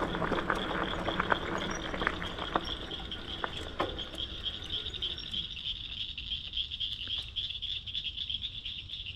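A steady high-pitched animal chorus of frogs or insects calling. Over the first five seconds a low rumble and scattered clicks sit under it, then fade, leaving the chorus alone.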